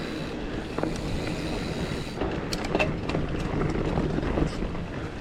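Giant Fathom mountain bike riding down a dirt trail: steady rumble of tyres and wind, with sharp clicks and rattles from the bike over bumps from about two seconds in.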